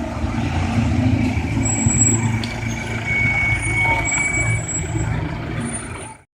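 Low, steady rumble of a vehicle engine amid street traffic noise, with a faint high tone now and then; it cuts off abruptly near the end.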